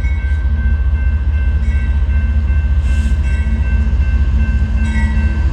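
Diesel locomotives of a slow Union Pacific freight train passing close by: a heavy, steady low engine rumble with thin steady high tones over it.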